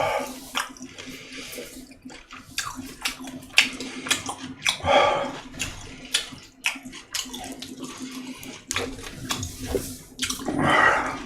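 Close-miked chewing and wet mouth sounds of a person eating, irregular clicks and smacks, with a few short vocal sounds at the start, about five seconds in and near the end. A faint steady hum runs underneath.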